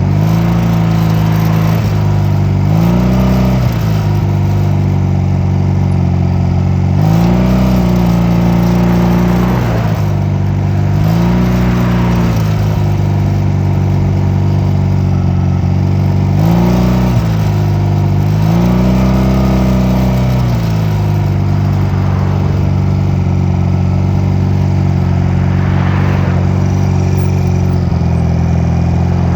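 Honda 250cc motorcycle engine running on the move, revving up and easing back off five times in the first twenty seconds or so, then running at a steady pitch.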